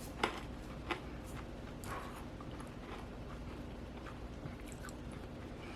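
A few faint, scattered crunches of freeze-dried Now and Later candy being chewed, over quiet room tone with a low hum.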